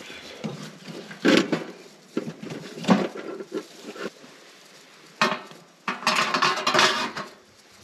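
Metal camp dishes and cutlery being handled: several separate clinks and knocks, then a denser clattering rattle for about a second near the end.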